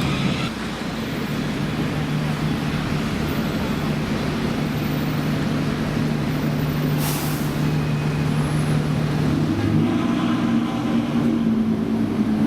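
Ferrari F12's V12 with a Novitec exhaust idling steadily, its note stepping up to a higher idle about ten seconds in. A short hiss about seven seconds in.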